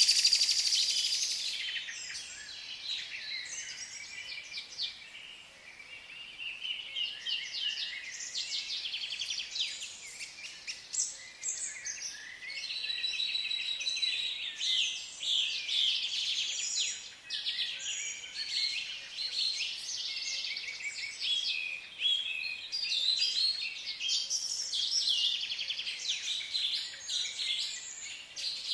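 A dense chorus of many small birds chirping and trilling at once, overlapping calls that go on without a break.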